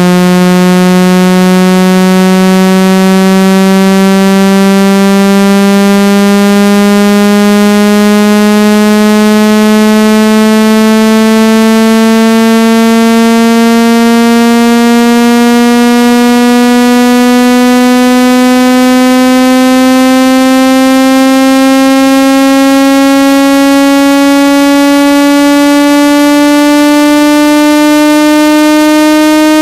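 Loud synthetic buzzing tone played to vibrate water out of a phone or earphone speaker, steady and rising slowly and evenly in pitch throughout.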